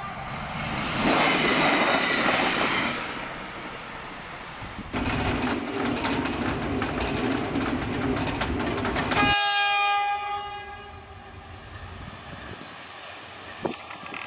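Diesel trains on the Tunisian railway in a run of short clips: a train's rolling noise, then the loud din of a diesel locomotive's cab at speed with a rapid clatter of wheels over the rails, and, from about two-thirds of the way in, a diesel locomotive sounding its horn with one long blast that fades away as the train comes on.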